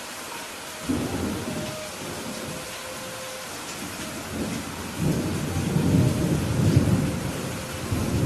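Steady rain with thunder. A rumble breaks in suddenly about a second in and dies away, then a longer, louder rumble builds from about five seconds in and rolls on to the end.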